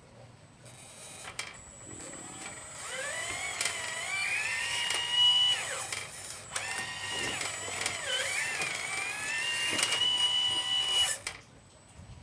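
A 1/12-scale Liebherr 954 RC model excavator's small electric drive whining as it works, its pitch rising and bending with the load, with a few light clicks. There are two long runs with a brief dip in the middle, and the whine stops suddenly near the end.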